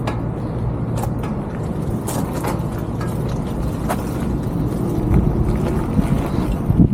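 Steady low rumble of wind buffeting the microphone and road noise from a moving e-bike, with a few sharp clicks and rattles. It grows a little louder and more gusty near the end.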